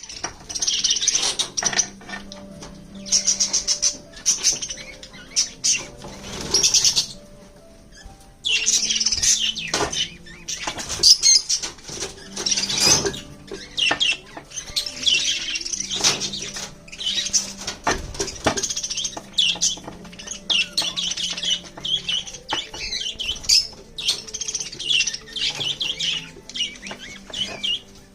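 A flock of budgerigars chattering and chirping together without pause, with wing flutters mixed in.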